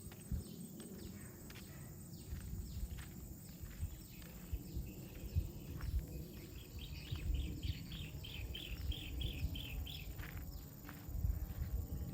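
Footsteps on a path with a low wind rumble on the microphone. About halfway through, a bird gives a run of about ten quick repeated high chirps, roughly three a second.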